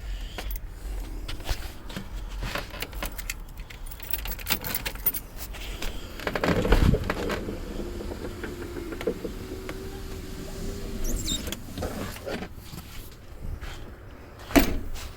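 Clicks and handling noises with a knock about six and a half seconds in, then a truck's electric window motor running with one steady tone for about three seconds before stopping.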